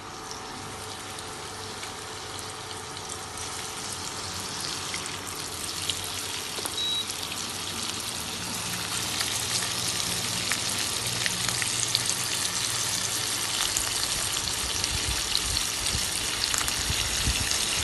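Flour-dusted chicken wings shallow-frying in hot oil: a steady sizzle with scattered crackles and pops, growing louder through the first several seconds.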